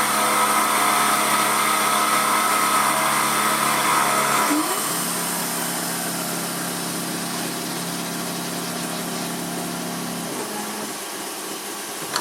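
Emco F1 CNC milling machine running, a steady mechanical whine made of several tones at once. About four and a half seconds in the sound changes abruptly to a lower, quieter hum, which drops away again about ten seconds in.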